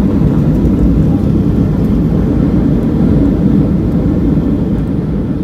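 Steady low rumble of a jet airliner, engine and airflow noise.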